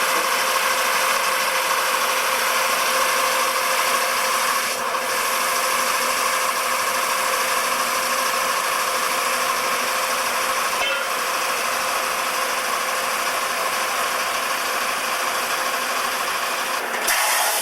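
REED A40HP concrete pump running: its engine and hydraulics make a steady mechanical noise with a faint steady whine, breaking off for an instant twice, with a louder rush near the end.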